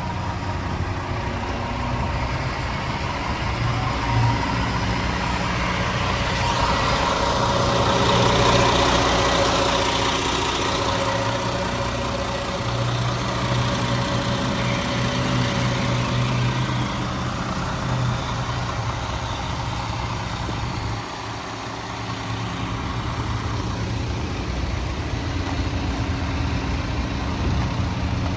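Diesel engine of a front-loader garbage truck idling steadily; it grows louder and brighter for a few seconds partway through, then settles back to idle.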